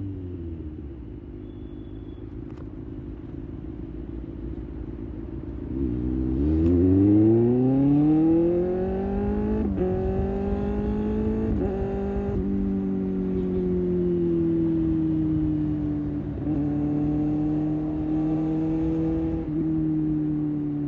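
Kawasaki ZX-6R's 636 cc inline-four engine. Its revs fall away and it runs low for a few seconds, then it accelerates hard from about six seconds in with the pitch climbing. Three quick upshifts each briefly drop the pitch, and it settles into a steady cruise.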